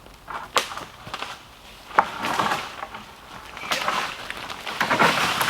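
A dead tree being pushed over by hand: sharp cracks of dry wood about half a second and two seconds in, then stretches of crackling and rustling as it gives way and comes down through the branches, its shallow roots letting it go.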